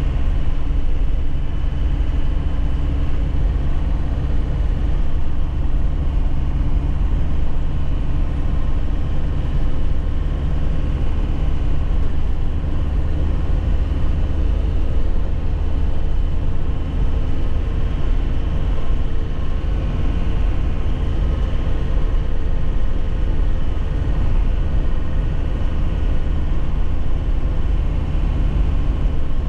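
A 2001 Nissan Cabstar light truck being driven, heard from inside: a steady engine drone under a heavy low road rumble.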